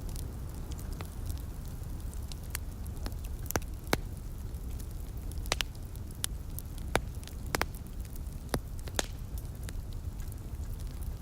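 Wood fire crackling, with irregular sharp pops about a dozen times over a steady low rumble.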